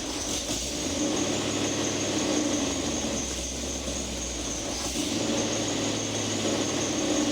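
Car engine idling steadily through a newly fitted exhaust.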